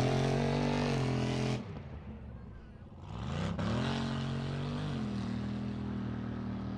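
Super-class mud truck engine at high revs. It drops off about a second and a half in, then revs back up around three seconds in and holds steady.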